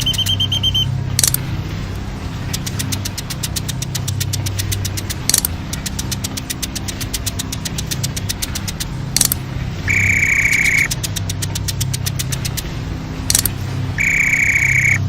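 Truck engine running with a low, steady rumble and a fast, even ticking over it. Sharp clicks come about every four seconds, and two long high electronic beeps sound near the end.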